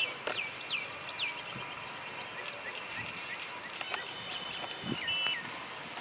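Birds calling over a steady outdoor hiss: three quick falling whistles at the start, a rapid run of high ticks, then longer held whistles with a last falling note near the end.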